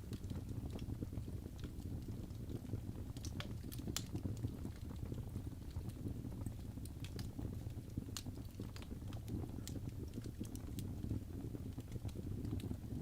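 Birch logs burning in a fireplace: a steady low rumble of flame with irregular sharp crackles and pops, a few louder pops about three to four seconds and eight seconds in.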